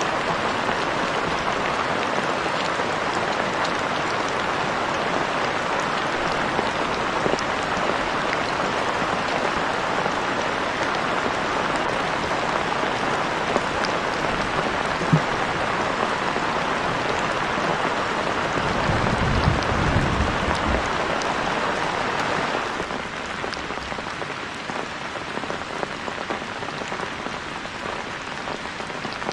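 Steady rain falling. A brief low rumble comes about two-thirds of the way through, and the rain sounds quieter after it.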